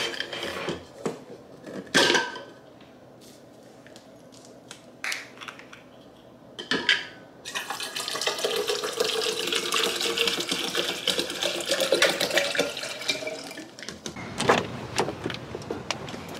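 Water running into a drinking cup for about six seconds, its pitch rising as the cup fills, then stopping. Before it come a few knocks and clicks of the cup being handled, and a few more clinks follow near the end.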